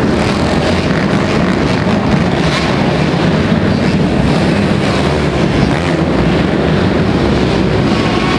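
Motocross bike engines running steadily and loudly, mixed with wind buffeting the microphone.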